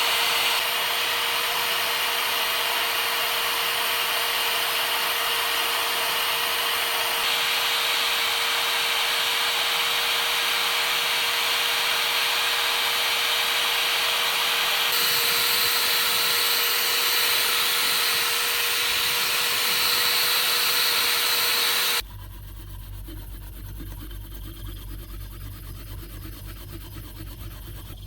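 Power sanding tool running steadily against a workpiece: a continuous rough grinding noise over a constant motor tone. About 22 seconds in it cuts abruptly to a quieter sound with a low hum and a rapid pulsing texture.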